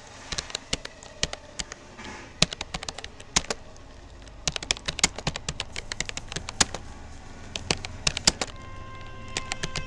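Rapoo computer keyboard being typed on steadily, a fast uneven run of key clicks during a timed typing test. Near the end a steady tone with several pitches comes in under the clicks.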